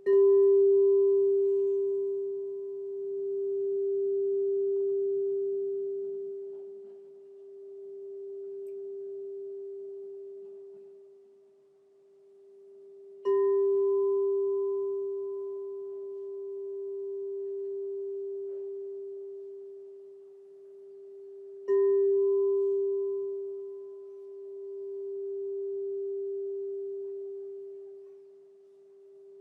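Crystal singing bowl struck three times: at the start, about 13 seconds in and about 22 seconds in. Each strike sets off one pure, low ringing tone with a faint higher overtone, and the tone rings on between strikes, swelling and fading in a slow waver.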